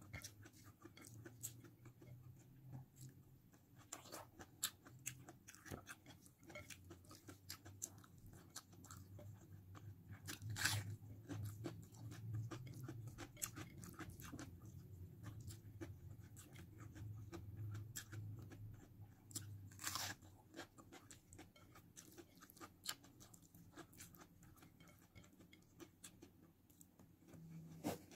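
A person eating rice and sardines by hand: faint chewing with soft mouth clicks and smacks, and two louder smacks about ten and twenty seconds in.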